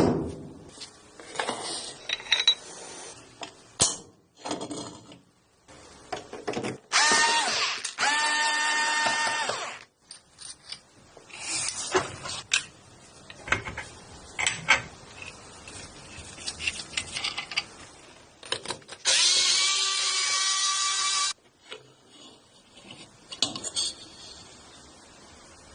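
A small power drill runs twice, each time for about two to three seconds with a steady whine, the first one rising in pitch as it spins up. Between runs come scattered clicks and knocks of small metal parts being handled.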